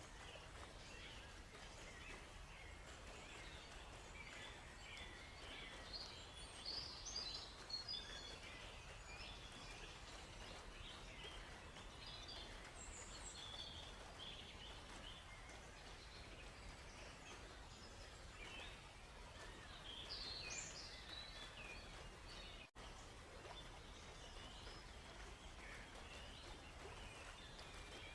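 Forest bird chorus: many small birds chirping and trilling over a faint steady hiss, busiest in two stretches. The sound drops out for a split second about three-quarters of the way through.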